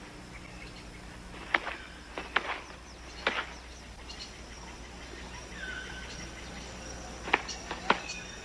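Rainforest background of insects and bird calls with short chirps, broken by a handful of sharp clicks or taps, two of them close together near the end.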